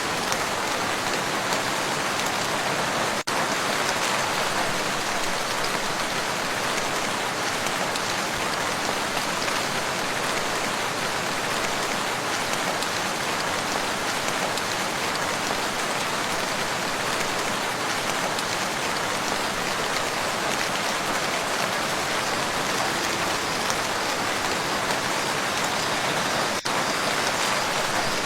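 Steady rain falling on a lake's surface, an even, dense hiss of drops, briefly dipping twice.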